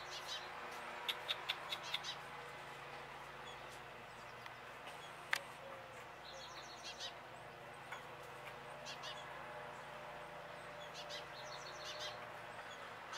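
Birds chirping in short, quick clusters of high calls, with a single sharp tick about five seconds in, over a steady background hum.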